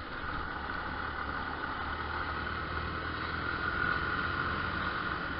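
Yamaha Fazer 250 motorcycle's single-cylinder engine running steadily, with a steady low hum and road noise.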